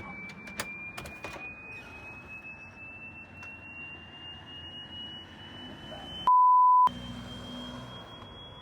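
A high-pitched electronic tone from a Bluetooth speaker, one pure pitch gliding slowly upward, with a few sharp clicks in the first second or so. About six seconds in, all other sound cuts out for a loud half-second censor bleep.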